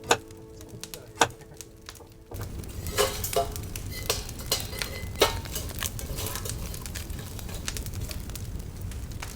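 Soft sustained music notes with a couple of sharp clicks, cut off about two seconds in. Then a steady rushing background with scattered clinks and knocks, like cooking utensils against pots and dishes.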